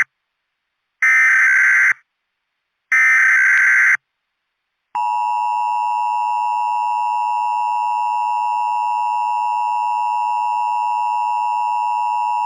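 Emergency Alert System header: two short bursts of screeching digital data tones about a second apart, the last of the header's three repeats. About five seconds in, the steady two-tone EAS attention signal begins and holds, announcing an incoming emergency message.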